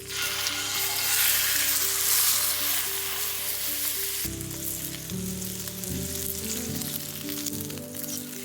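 Food sizzling loudly in a hot pan over a campfire, the frying hiss coming in suddenly and carrying on steadily. Soft background music plays underneath.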